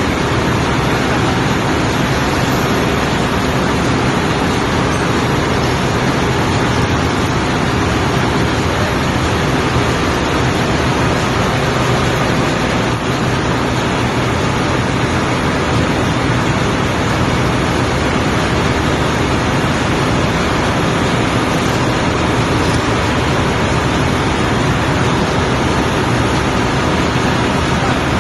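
Loud, steady drone of ship's engine-room machinery running, an even rushing noise with a faint low hum under it that does not change.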